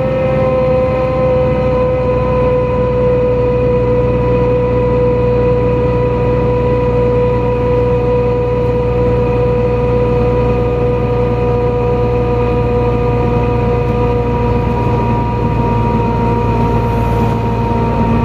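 NefAZ-5299 city bus heard from inside the cabin while under way: steady engine and drivetrain rumble with a whine that slowly drops in pitch.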